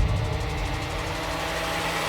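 Cartoon sound effect of a vehicle engine running steadily, with a hiss that builds slightly.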